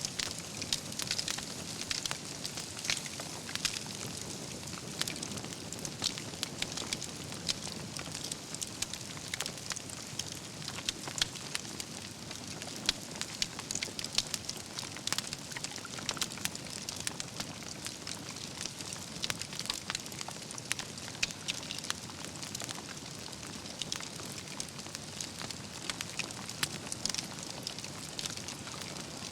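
A wood fire burning, with a steady hiss and dense, irregular crackles and pops from the logs all through.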